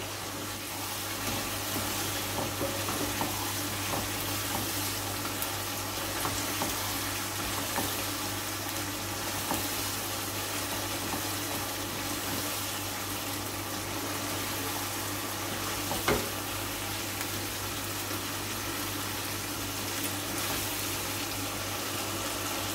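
Chicken, potato and capsicum curry sizzling in a non-stick wok while a spatula stirs it: the dish is being fried down on high flame (bhuna). A steady hiss with small scraping clicks, and one sharper knock past the middle.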